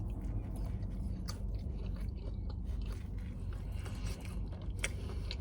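A person chewing food close to the microphone, with a few sharp wet clicks from the mouth, one about a second in and another near the end.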